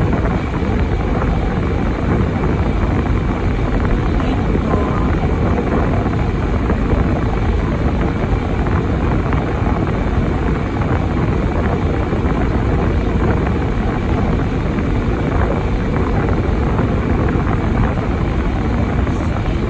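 Steady low rumble of a vehicle running, with no change in level.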